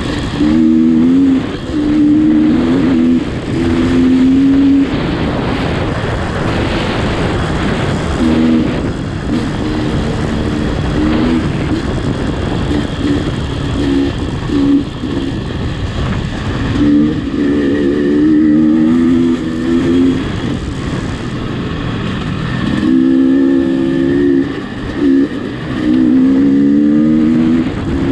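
A motor vehicle's engine running under a steady rush of road and wind noise, its note wavering up and down in short stretches.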